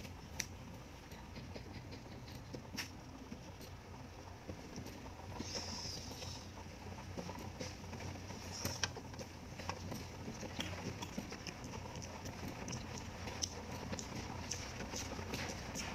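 Close-up mouth sounds of eating boiled pork intestine: chewing, with scattered small wet clicks and smacks.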